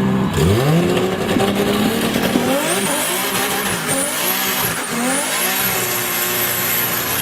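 Modified Nissan Skyline R34 GT-R's twin-turbo straight-six revving hard, its pitch climbing and dropping several times, with a thin high whine joining about two and a half seconds in.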